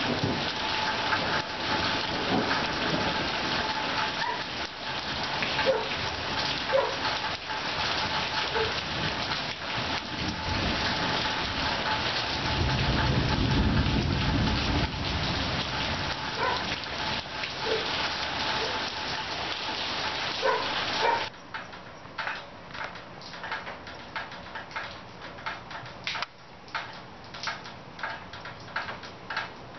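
Heavy rain pouring steadily on surfaces, with a low rumble of thunder about halfway through. A little past two-thirds of the way it cuts off abruptly to a much quieter patter of separate drips and taps.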